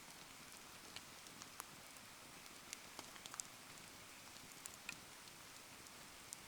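Bonfire burning in the rain: a steady soft hiss of rain, with scattered sharp crackling ticks from the fire and falling drops.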